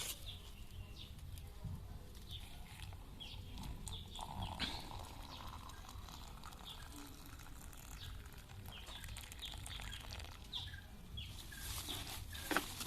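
Small birds chirping: many short, falling chirps scattered throughout, over a low rumble of wind or handling noise. A sharp knock comes near the end.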